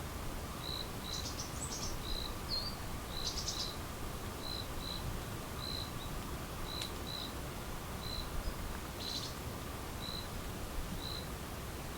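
Forest ambience: a short high chirp repeating every half second or so, with a few brief bird twitters and a low rumble underneath.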